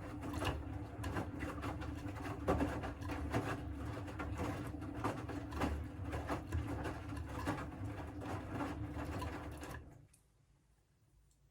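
Siemens WM14T490 washing machine's drum turning with a rumble and many irregular clicks and knocks, then stopping about ten seconds in. The noise is the sign of a failed drum bearing.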